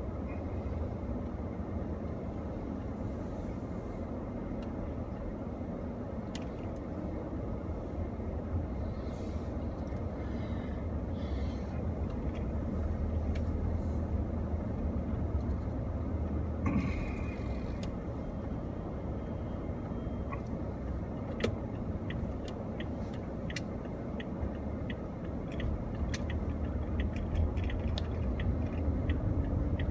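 Steady low rumble of a car driving, heard from inside the cabin, with scattered light clicks and ticks in the second half.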